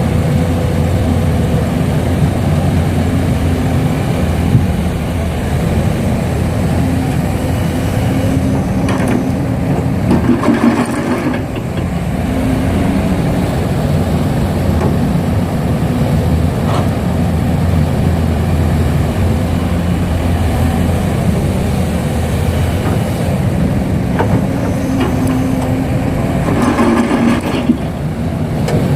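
Heavy diesel engine running steadily, with brief louder surges about ten seconds in and again near the end.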